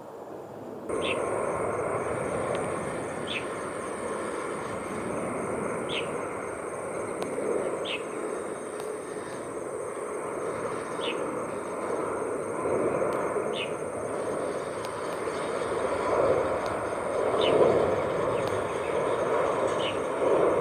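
Distant jet airliner engines, a Cathay Pacific Airbus A350, giving a steady rushing rumble that swells toward the end. The sound starts abruptly about a second in. Over it run a thin, steady high insect buzz and short high chirps every couple of seconds.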